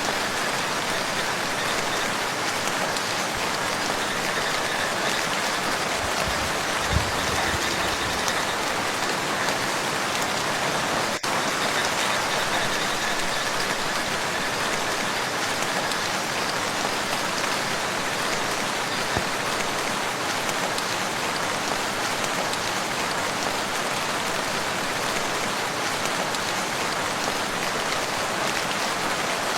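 Steady rain falling on a lake's surface and shore, a dense, even hiss of drops. A brief low thump about a quarter of the way through.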